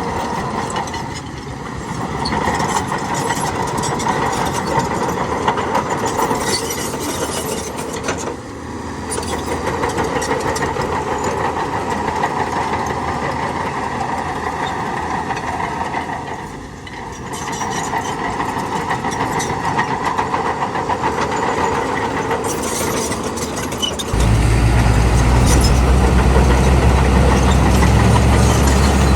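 Diesel engines of heavy earthmoving machinery running steadily, with a few brief dips in level. About 24 seconds in, the sound changes abruptly to a much louder, deeper engine sound.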